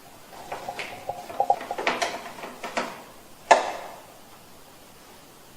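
Plastic air-conditioner casing and front panel being handled and fitted together: a run of irregular clicks, taps and rattles, ending in one louder knock about three and a half seconds in.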